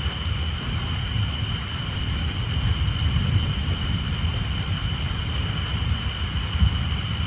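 Steady rain on a tin roof under a continuous low thunder rumble, with a steady high-pitched tree frog chorus over it.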